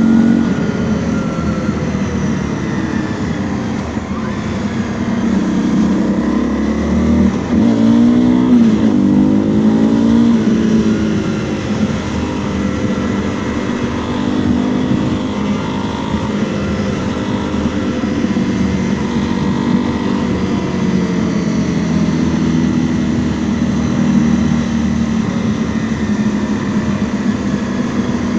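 Honda CRF250L's single-cylinder 250 cc engine running under way, its pitch steady for most of the time but rising and falling several times about six to ten seconds in as the throttle and gears change.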